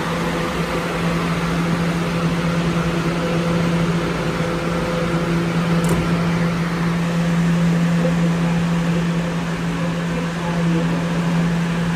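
Steady electrical hum and rumble in a New York City subway station: a constant low drone over a wash of noise, with a faint tick about halfway through.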